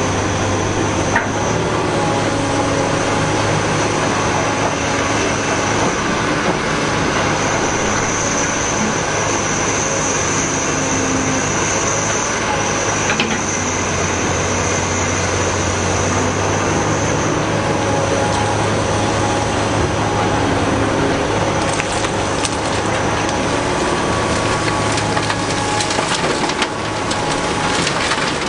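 Caterpillar 245B hydraulic excavator working: its diesel engine runs steadily under load, a high hydraulic whine rises for a stretch in the middle, and loose rock and dirt crunch and grind.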